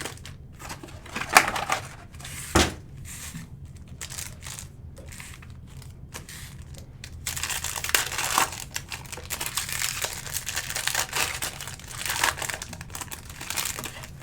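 Trading-card packs being torn open and their wrappers crinkled. A couple of sharp rips come in the first three seconds, then denser, steady crinkling from about halfway through.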